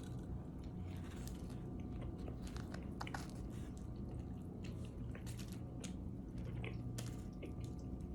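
A person chewing a Philly cheesesteak sandwich close to the microphone, with soft wet squishes and scattered small crunches.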